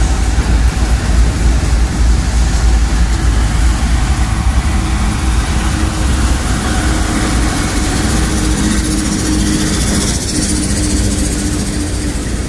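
A vehicle engine running with a steady low rumble and a droning hum.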